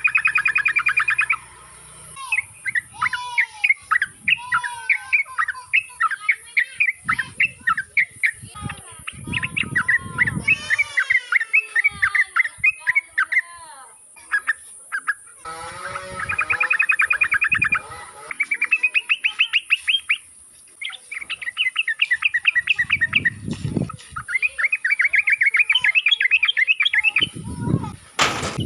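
Yellow-vented bulbul (trucukan) singing: bursts of fast, bubbly chattering trills and short whistled notes, repeated phrase after phrase with brief pauses between.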